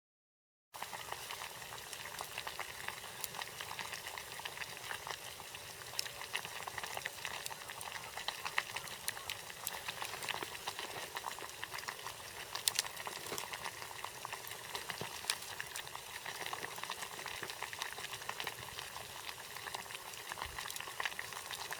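Campfire crackling steadily, with frequent sharp pops of burning wood over a continuous hiss.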